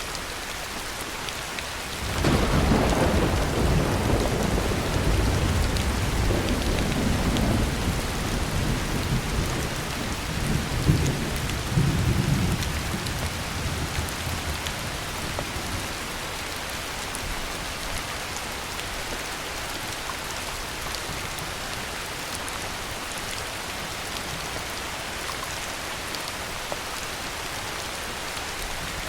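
Heavy rain falling steadily, with a clap of thunder breaking in about two seconds in and rolling on in a low rumble, with a second swell around eleven seconds, before dying away into the rain.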